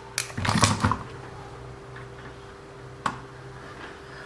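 A quick run of light clicks and rattles in the first second, then a single sharp click about three seconds in, over a faint steady hum.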